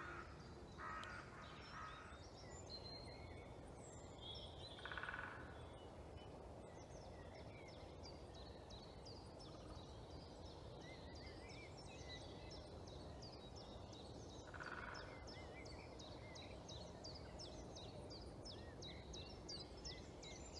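Faint dawn birdsong in woodland: many small birds chirping and singing in short, quickly repeated high notes, with three louder, lower calls from a bigger bird, one about a second in, one about five seconds in and one near fifteen seconds.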